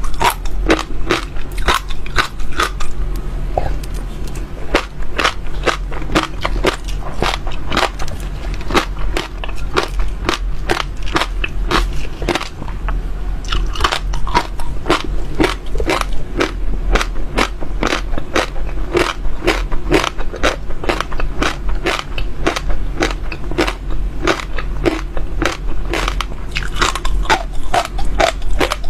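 Close-miked chewing: small crunchy seeds being bitten and crushed in the mouth, a dense, continuous run of sharp crackling crunches several times a second, over a steady low hum.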